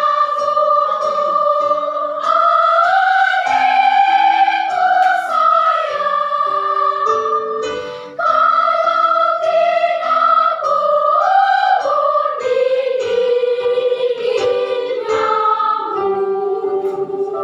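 High voices singing a slow melody in long held notes over short accompanying notes, with a brief break between phrases about eight seconds in.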